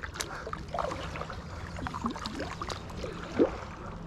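Water lapping and gurgling around a fishing kayak, with scattered light knocks and clicks and one sharper sound about three and a half seconds in.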